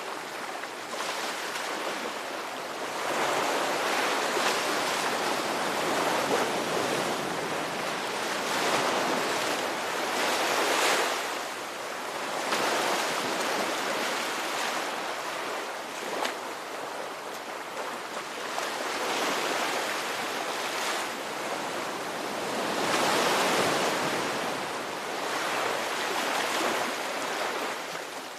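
Ocean surf: a steady rush of waves that swells louder and eases off every few seconds.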